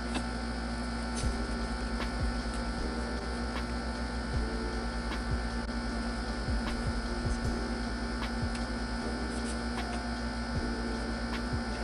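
A steady electrical hum, with faint regular ticks about every 0.7 seconds.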